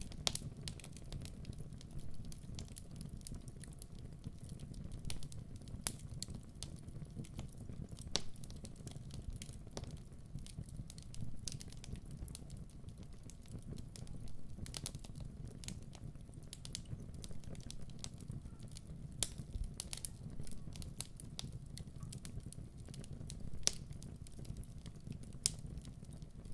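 Wood fire burning in a fireplace: a steady low rumble of flames with irregular sharp pops and crackles from the burning logs.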